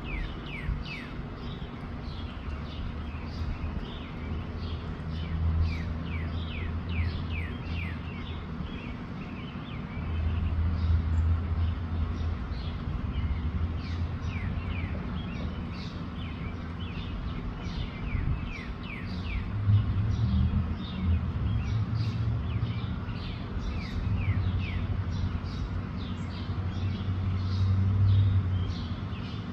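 Many small birds chirping, a steady stream of short downward-sliding calls several a second, over a low rumble that swells and fades in stretches.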